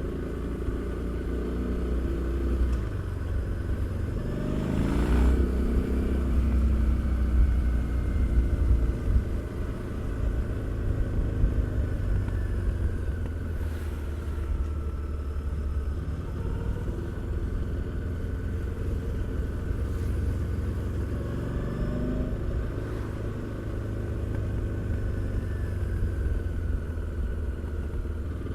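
Harley-Davidson Street 750's liquid-cooled V-twin engine, A2-restricted to 35 kW, running through its exhaust on the move. Its pitch rises as it pulls through the revs about four seconds in and again past the twenty-second mark, with a deep steady rumble in between.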